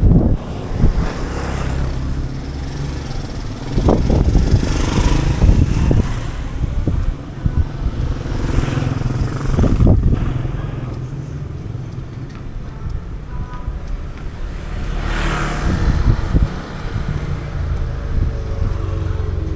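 Street traffic with cars and motorcycles going by: a steady engine rumble, with several vehicles passing close one after another, each swelling and fading over a second or two.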